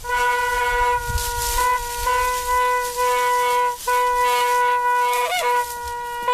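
A horn sounding one steady, loud note, held long with brief breaks about one, two and four seconds in. A short wavering sound comes in about five seconds in.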